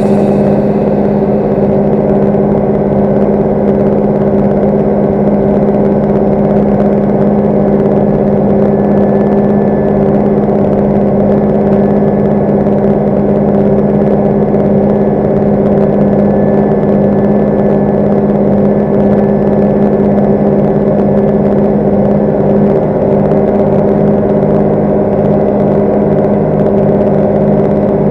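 Tractor engine running steadily at a constant speed, a loud unchanging drone with a strong low hum.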